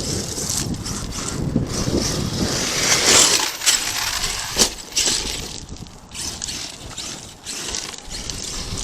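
Arrma Kraton 8S RC truck driving over rubble: gravel crunching and rocks clattering under its tyres, with several sharp knocks in the middle, loudest a few seconds in.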